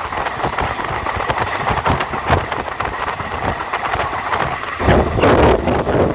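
Train running on the rails: a steady rumble with rapid clicking from the wheels over the track. About five seconds in, a louder rush of wind on the microphone comes in.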